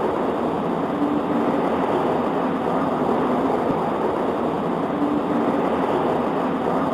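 Steady rain on a window, an even hiss with no breaks.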